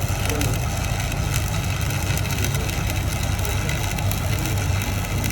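Workshop machinery running steadily: a low hum under a constant rough, crackling noise.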